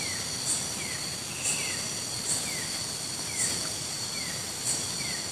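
Tropical forest insect chorus: a steady high-pitched buzzing, with a short falling chirp from some unseen animal repeating about once a second.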